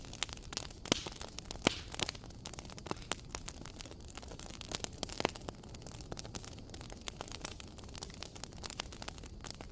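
Fireplace fire crackling: irregular sharp pops and snaps, a few of them louder, over a steady low hiss.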